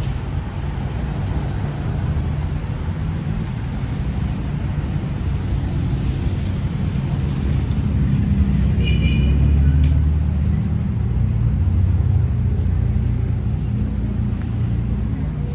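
Street traffic: engine rumble of passing vehicles, swelling to its loudest around the middle, with a brief high squeal about nine seconds in.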